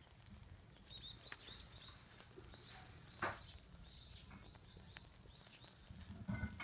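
Small birds chirping faintly outdoors, in short high chirps, with one sharp knock about three seconds in and a soft thump near the end.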